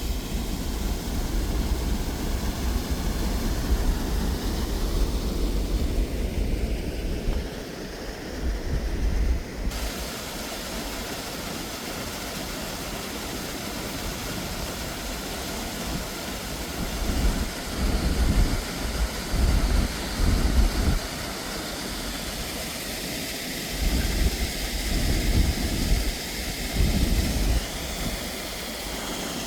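Steady rush of the river flowing, with gusts of wind buffeting the microphone.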